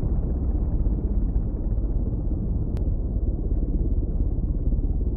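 A loud, steady low rumble with its weight in the deep bass, with a single faint click nearly three seconds in.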